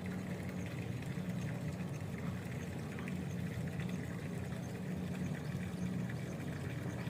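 A motor running steadily at a constant low hum, without change in pitch.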